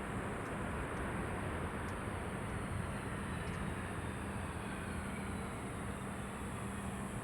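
Jet airliner engine noise, a steady rushing drone with a faint whine that falls slowly in pitch as the aircraft passes.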